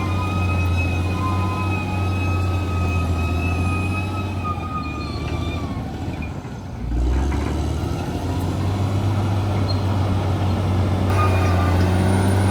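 Bulldozer's diesel engine running steadily with a thin high-pitched whine over it. The sound dips about halfway through, then comes back with a low thud.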